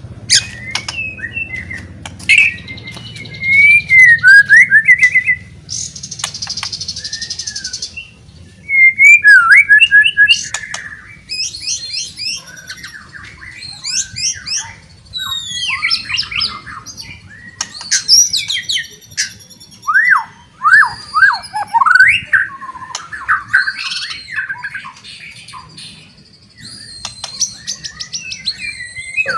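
White-rumped shama (murai batu) singing loudly, a varied run of whistles, fast pitch glides and trills, with a harsh buzzy call about six to eight seconds in.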